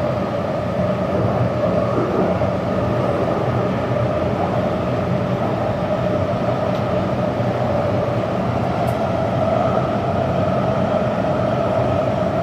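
Taipei Metro train running steadily: an even rumble of wheels on rail with a steady hum.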